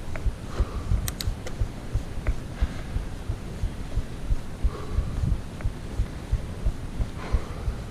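Mountain bike rolling fast over a rough trail: a rapid, irregular run of low thumps from the bumps, with a few sharp clicks about a second in.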